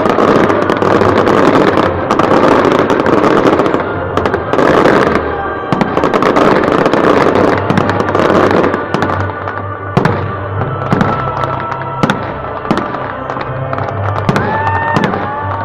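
Fireworks display: a dense run of crackling bursts, then several separate sharp bangs.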